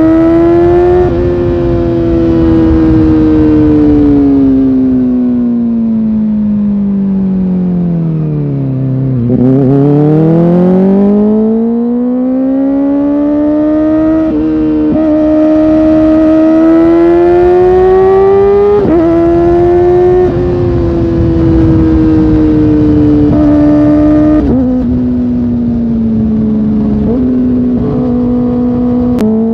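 Kawasaki Ninja ZX-4R's inline-four engine under way: the revs fall steadily for about nine seconds, then climb again. Several sudden steps in pitch follow in the second half, with steady wind rush underneath.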